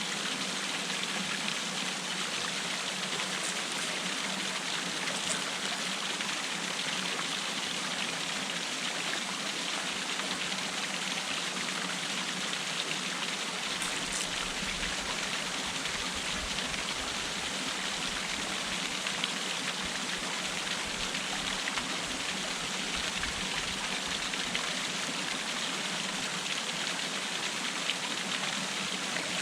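Waterfall water falling and rushing steadily, an even splashing hiss with no change in level.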